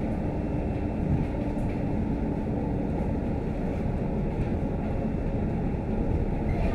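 Interior of a Scania K310UD double-decker bus on the move: a steady rumble of diesel engine and road noise.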